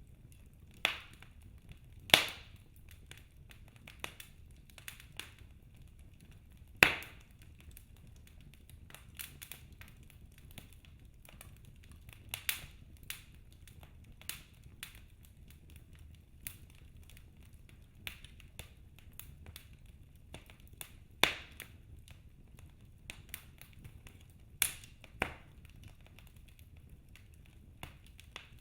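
Wood fire in a fireplace crackling, with irregular sharp pops and snaps, a few of them much louder, over a low steady rumble.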